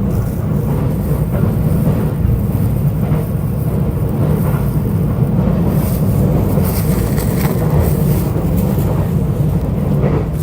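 Cabin running noise of a JR East E531-series electric multiple unit travelling along the line: a steady low rumble of wheels on rail and running gear.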